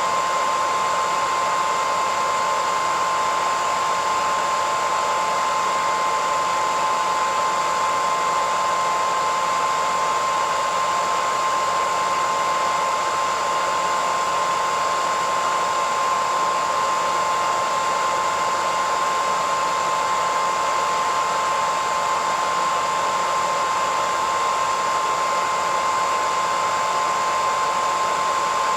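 Hair dryer running steadily: an even rush of air with a steady whine.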